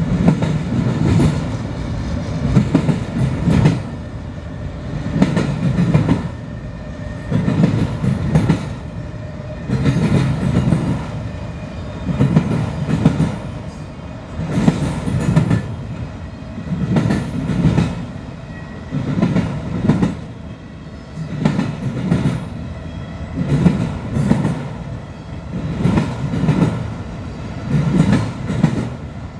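Freight train of autorack cars rolling past, the steel wheels clattering over the rails in a steady rumble that swells into a louder clack about every two and a half seconds.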